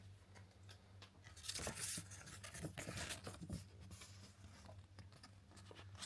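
Paper being handled and torn open, with faint irregular rustling and crinkling that is busiest from about a second and a half in, over a faint steady low hum.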